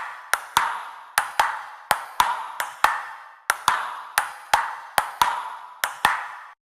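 Sharp, ringing percussive hits in a steady rhythm, mostly in close pairs, each ringing out briefly before the next. They stop abruptly near the end.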